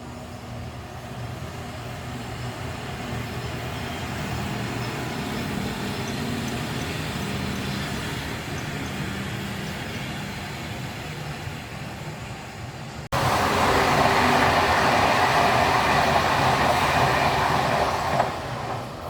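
Train passing on the line: a steady rumble that swells over the first several seconds and then eases off. About thirteen seconds in, after an abrupt cut, a much louder rushing noise of a train going by close.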